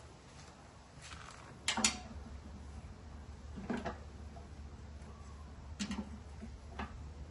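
A few scattered sharp clicks and knocks over a low steady hum; the loudest is a quick double knock about two seconds in.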